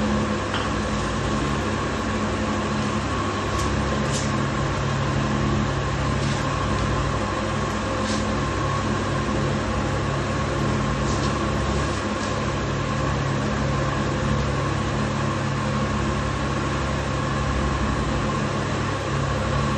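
A steady mechanical drone from a running machine or motor, holding the same pitch and level throughout, with a few faint ticks over it.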